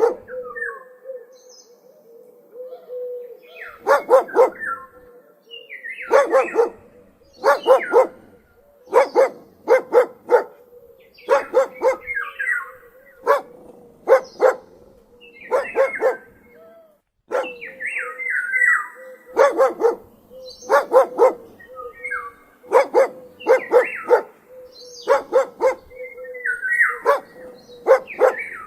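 A dog barking repeatedly, in short runs of two to four barks every second or two, over a steady faint tone.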